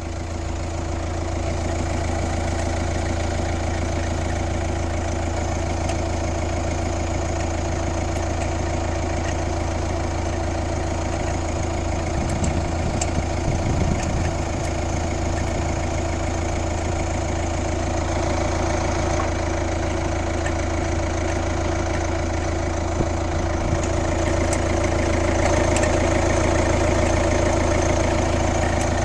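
Kia Ceed's 1.6 CRDi D4FB four-cylinder common-rail diesel idling steadily, with a few faint ticks, carrying the weird engine noise whose cause the owner does not know. It gets a little louder in the last few seconds.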